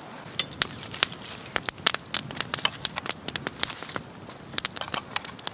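Campfire coals being scooped and shifted with a machete: a dense, irregular run of sharp crackles and clicks from the embers and the blade.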